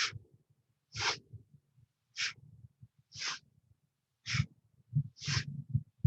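Quick, forceful audible breaths in and out, about one a second, keeping time with a side-to-side seated spinal twist.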